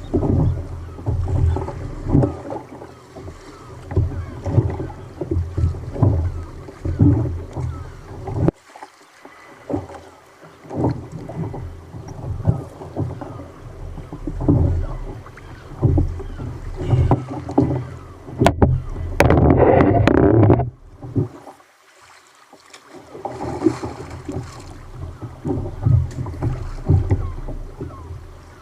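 Choppy sea water slapping and lapping against a kayak's hull in irregular knocks, with a louder rush of water about two-thirds of the way in.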